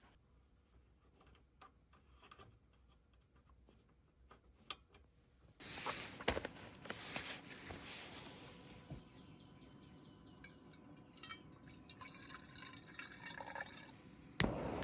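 Liquid pouring, then dripping, with small clicks and knocks around it. The pour starts suddenly about five and a half seconds in and fades into a softer steady trickle, and a sharp knock comes near the end.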